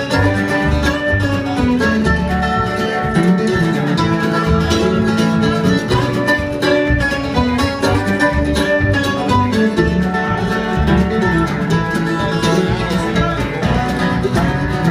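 Bluegrass band playing an instrumental break with no singing: picked guitar and banjo over a steady bass rhythm.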